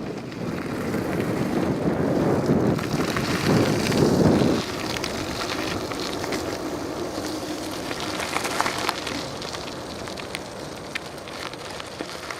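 Wind noise rushing over the microphone of a camera carried on a moving bicycle, loudest for a couple of seconds near the start and then easing to a steady rush with small scattered clicks.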